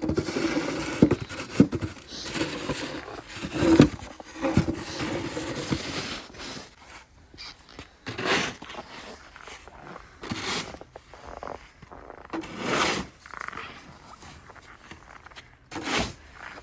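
Snow shovel scraping and pushing snow in a series of irregular strokes.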